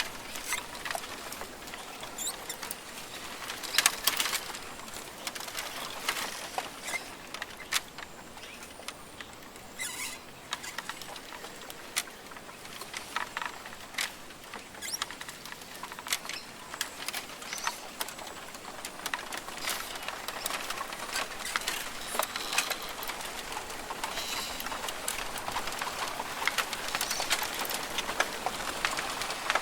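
Rainforest ambience: a steady hiss with many small, irregular clicks and taps scattered through it.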